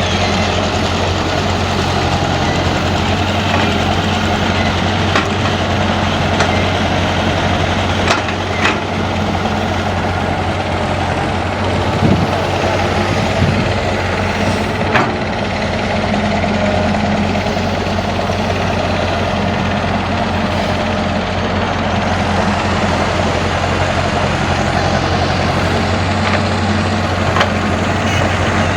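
Diesel engines of a crawler excavator and a farm tractor running steadily at an even, low note, with a few sharp knocks scattered through.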